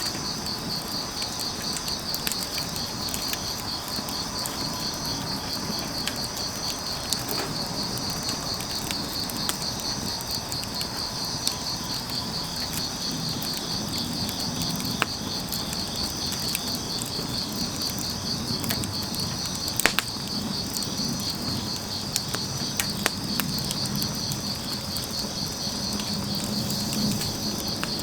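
Crickets chirping in a fast, steady pulsing trill over a burning firewood fire that crackles with scattered sharp pops, the loudest about 20 seconds in.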